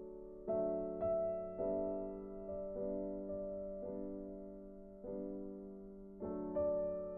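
Soft background piano music: slow chords struck about once a second, each ringing out and fading before the next.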